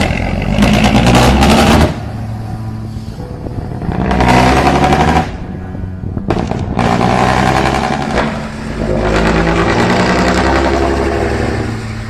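Mercedes-Benz 1118 truck's diesel engine being revved in several bursts of a second or two each, falling back to a lower, steady run between them.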